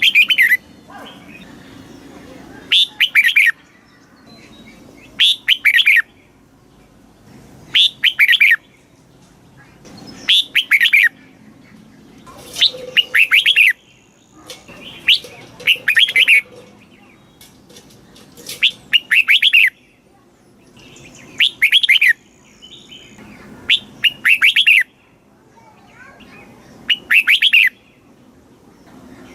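Red-whiskered bulbul singing: a short warbled phrase, repeated about every two and a half seconds.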